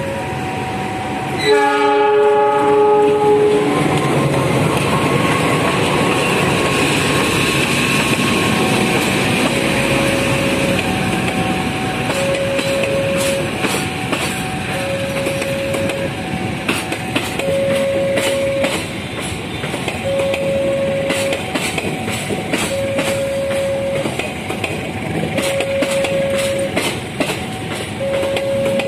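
Diesel locomotive's multi-tone air horn sounding twice at the start. Then a passenger train runs past close by, its wheels clicking over the rail joints, while a level-crossing alarm alternates between two tones.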